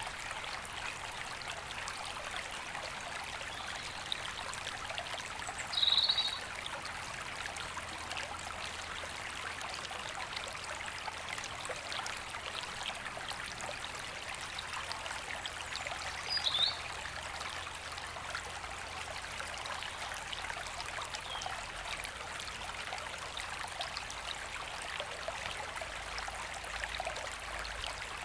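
River water flowing in a steady rush. A bird gives a short high call twice, about six seconds in and again about ten seconds later.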